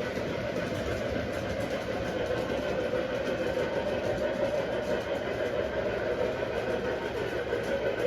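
Model train running around the layout's track: a steady rumble of motor and wheels on rail with fine clicking.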